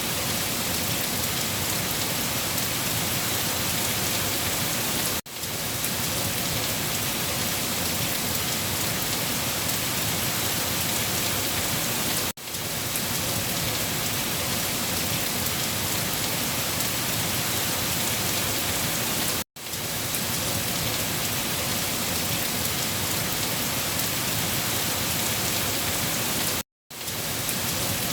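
Steady rain falling, an even hiss of many drops. The sound cuts out briefly four times, about every seven seconds, and swells back in each time.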